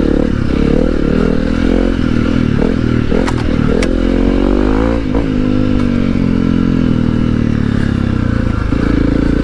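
Honda CRF300L dirt bike's single-cylinder four-stroke engine running under way, its pitch rising and falling as the throttle opens and closes. A couple of sharp clicks come about three and a half seconds in.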